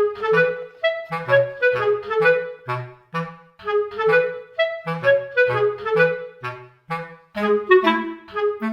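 Background music: a lively woodwind tune, clarinet-like, in short detached notes over a line of short low bass notes.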